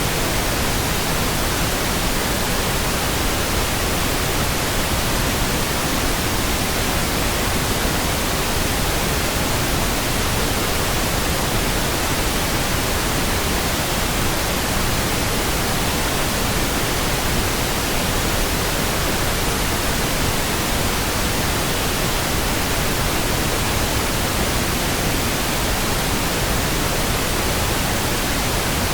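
Steady synthetic pink noise: an even, unchanging hiss across the whole range, without any events.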